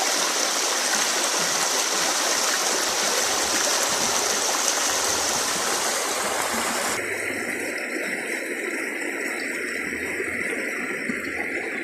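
Creek water running in a steady rush. About seven seconds in, the sound changes abruptly and becomes thinner and a little quieter.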